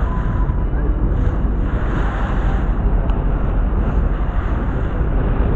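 Wind buffeting the microphone aboard a moving boat, over a steady rush of water.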